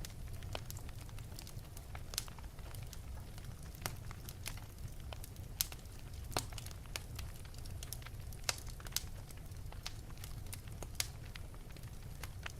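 Wood fire burning in an open fireplace: irregular sharp crackles and pops, a few louder snaps, over a steady low rumble of the flames.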